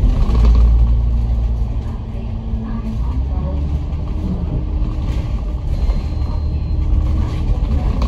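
Franchised bus heard from inside the cabin while under way: a steady low engine and road rumble with a fainter hiss above it.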